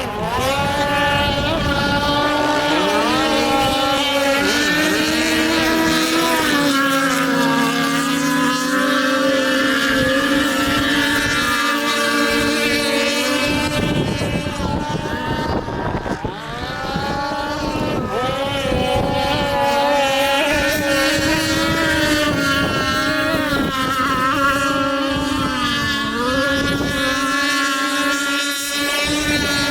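Speedboat engine running at high speed with a steady whine. About halfway through the note drops and dips in level briefly, as if the throttle is eased, then climbs back to full speed.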